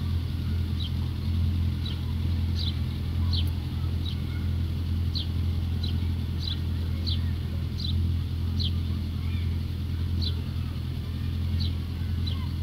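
Steady low hum of a vehicle engine or traffic. Over it a small bird gives short, high, falling chirps, roughly one or two a second.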